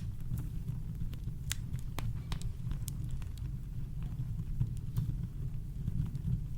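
Campfire crackling: scattered sharp pops and snaps, irregular, one or two a second, over a steady deep rumble of brown noise.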